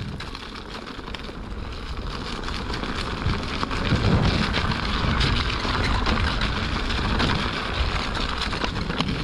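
Wind rushing and buffeting over the microphone of a moving electric unicycle, with tyre noise on the path underneath, growing louder about three seconds in as the speed picks up.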